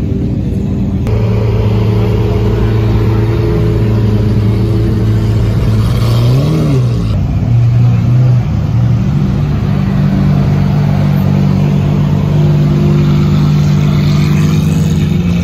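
Car engines running at idle, with one quick rev that rises and falls about six and a half seconds in.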